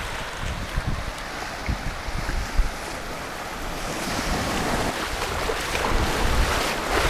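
Wind buffeting the microphone in uneven gusts over a steady rush of sea surf.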